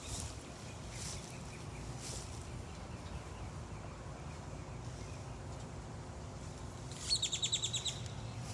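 Outdoor birdsong: a songbird gives faint chirps, then about seven seconds in a loud, fast trill of about ten notes lasting under a second.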